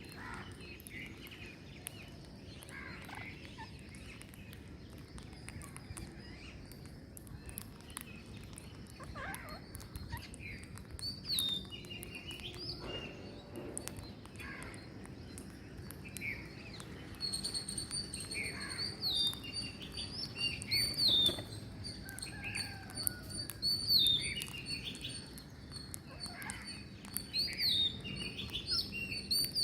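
Green parrots calling: scattered short chirps and squawks that grow busier and louder in the second half. A steady high thin whine joins a little past halfway.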